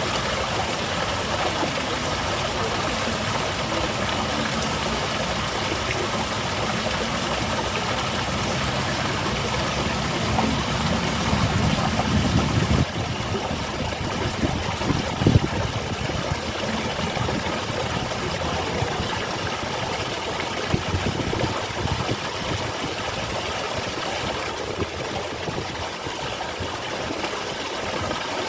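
Small waterfall splashing and running steadily, with a low engine rumble underneath that grows louder about ten seconds in and cuts off suddenly about halfway through.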